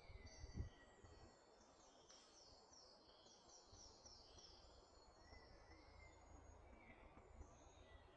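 Faint woodland birdsong from several songbirds: short whistled phrases and, about two seconds in, a fast run of high falling notes. A low bump sounds about half a second in.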